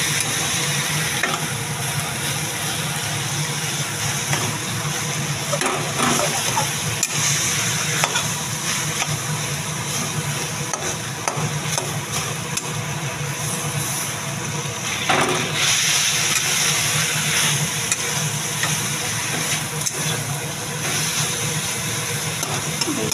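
Greens and lentil fritters sizzling steadily in a wok over a gas flame, with a few short scrapes of a spatula stirring them.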